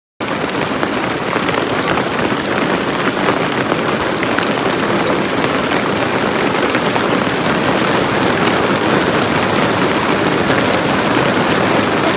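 Heavy rain falling steadily: a dense, loud hiss peppered with tiny drop ticks, cutting in suddenly just after the start.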